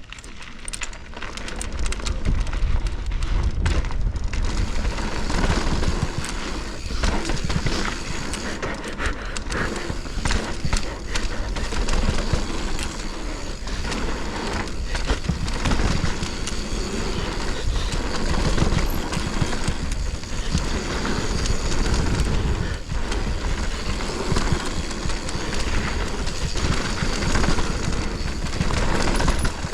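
Mountain bike ridden fast down a dirt flow trail: wind rushing over the microphone, tyres running on dry dirt, and the bike rattling and clicking over bumps.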